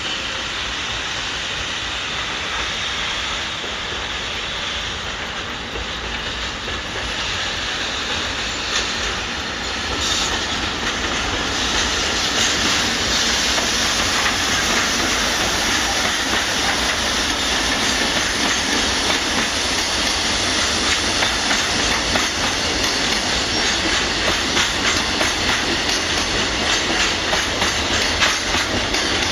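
Freight train running on the tracks, its wheels clattering rhythmically over the rails; the sound gets louder about ten seconds in.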